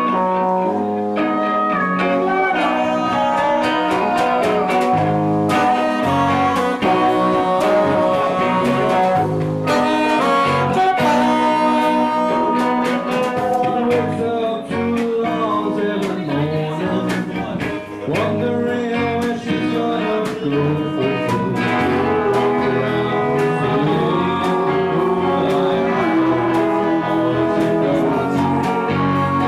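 Live band playing an upbeat song on electric guitars, bass and drums, with singing at times.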